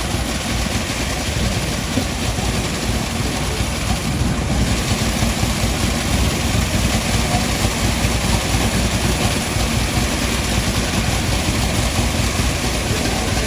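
A vehicle engine idling steadily, its sound strongest low down and even throughout, among street traffic noise.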